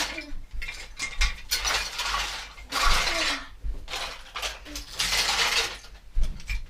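Toy train track pieces clattering and clicking against each other in a string of irregular bursts as they are pushed aside and handled.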